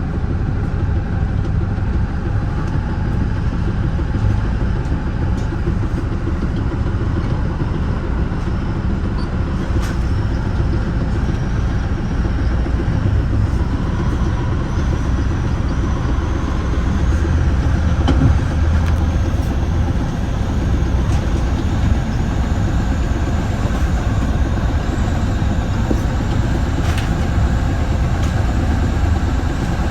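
Steady running noise heard from inside the front cab car of a Metra bi-level commuter train at speed: a low, even rumble of the train rolling on the rails.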